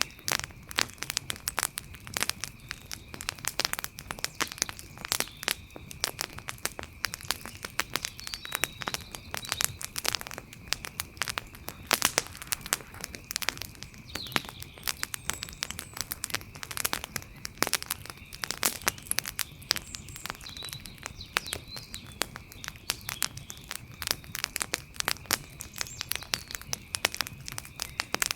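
Wood fire crackling, with dense, irregular pops and snaps of burning wood. A faint steady high tone runs underneath, and a few faint chirps come through around the middle.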